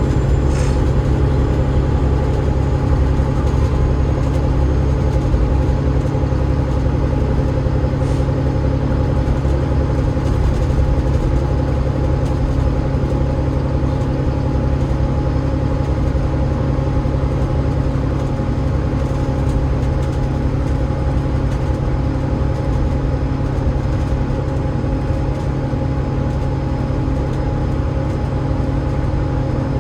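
Cummins ISL8.9 diesel engine and ZF EcoLife automatic gearbox of an Alexander Dennis Enviro500 MMC double-decker bus running steadily: a low drone with steady whining tones above it.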